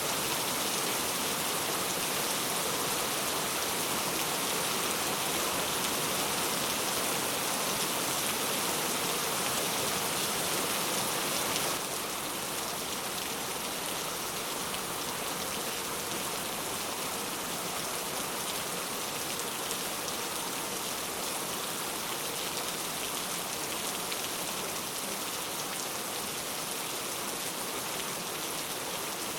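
Steady heavy rain, a dense even hiss of drops. About twelve seconds in it abruptly becomes slightly quieter, then carries on unchanged.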